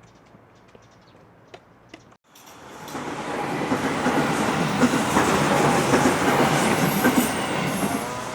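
A train passing on the rails, with clattering wheels, building up quickly from about two seconds in and staying loud. Before that there are a few faint clicks.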